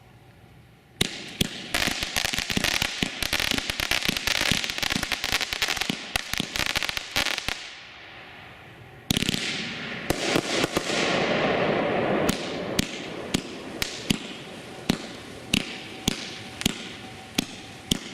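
Shogun "Really Raucous" consumer fireworks cake firing. A rapid volley of shots and crackling starts suddenly about a second in, then there is a short lull. A loud bang opens a second dense volley, which thins out near the end to single reports a little over half a second apart.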